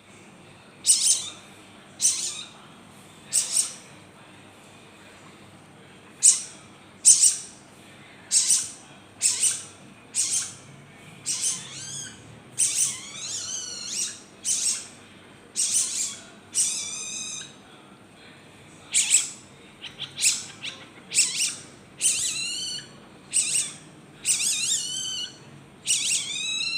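A bird giving short, high calls over and over, about one a second with a few pauses. Some calls are longer and slide downward in pitch.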